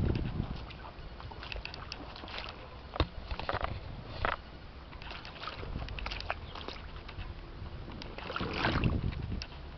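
Sloshing and splashing in standing rainwater after a downpour, in irregular bursts, with a louder surge right at the start and another near the end.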